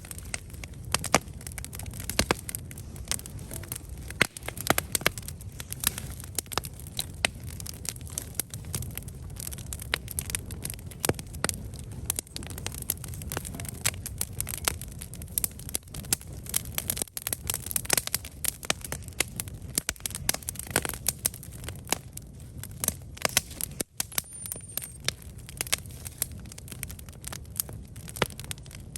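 Wood campfire burning, with frequent sharp crackles and pops over a steady low rumble of the flames.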